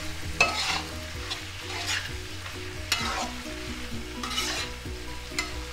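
Prawns in thick masala sizzling in a non-stick wok while a wooden spatula stirs and scrapes through them, a scrape about every second over a steady frying hiss.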